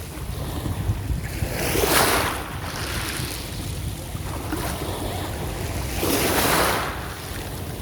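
Black Sea waves breaking on the shore, two surges about four seconds apart, with wind buffeting the microphone.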